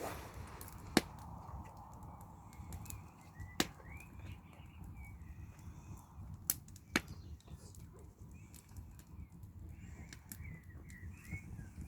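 Wood campfire crackling, with a few loud sharp pops among many small ticks, over a low steady rumble. Small birds chirp in short runs in the background, twice.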